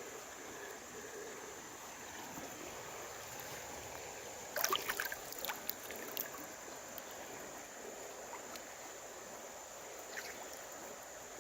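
Creek water running steadily, with a short burst of sharp splashes and knocks about halfway through as someone wades through the water.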